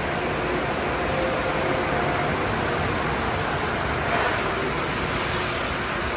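Steady, even noise of automatic car wash tunnel equipment running, with a faint steady hum underneath.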